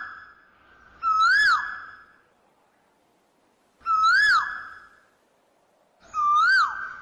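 A bird calling: a clear whistled note that rises and then drops away sharply, repeated three times about two and a half seconds apart.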